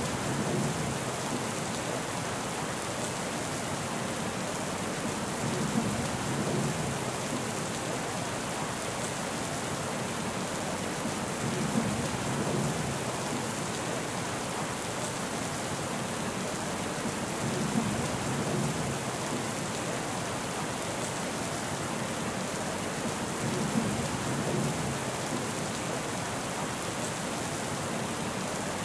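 Steady rain falling, with a low rumble that swells and fades about every six seconds.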